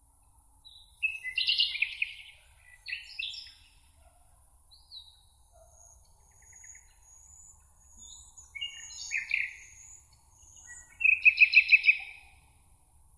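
Songbirds singing: several short, varied song phrases, the loudest coming near the end as a fast run of about eight repeated notes. Thin, high notes from another bird sound in the middle, over a steady high hiss.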